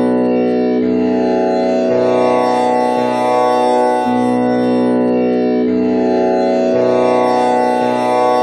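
Tanpura drone tuned to B, with one string set to komal Ni (the flat seventh) instead of Pa. The strings are plucked one after another in a slow repeating cycle, a new string sounding roughly every second, and their buzzing overtones merge into one loud, steady drone.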